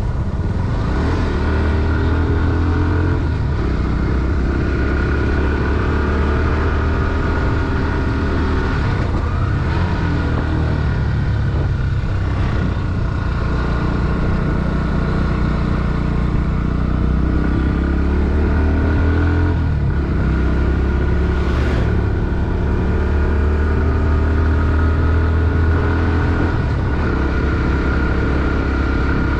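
Bajaj Pulsar NS160's single-cylinder four-stroke engine running under way on a motorcycle, its note climbing and dropping several times as the rider works the throttle. A short sharp sound cuts through once, near the end.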